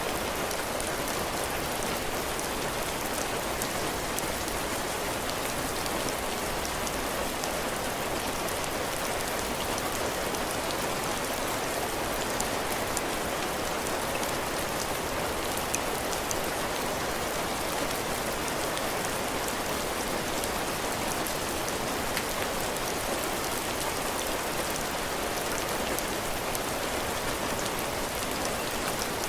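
Steady heavy rain falling on a cabin porch roof and the ground, with the fine patter of individual drops.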